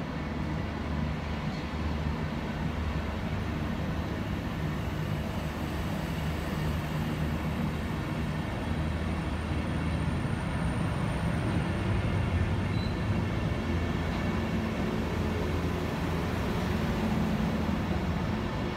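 Deutsche Bahn Intercity coaches rolling slowly past along a platform: a steady low rumble of wheels on rail.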